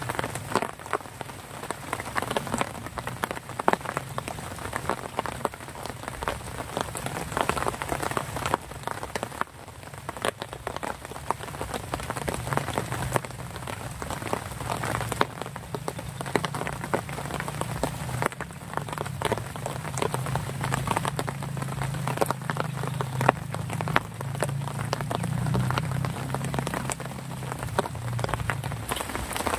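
Steady rain, with many individual drops striking close by in sharp ticks. A low hum joins about twelve seconds in and fades near the end.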